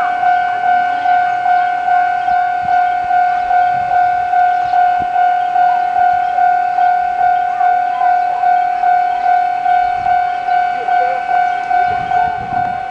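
Railway level-crossing alarm sounding, a steady electronic tone pulsing about twice a second, warning that a train is approaching. Near the end the low rumble of the approaching train comes in under it.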